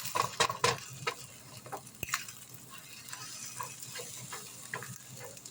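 Eggs being stirred in a sizzling frying pan: a utensil scrapes and taps against the pan in short, irregular strokes over a steady sizzle.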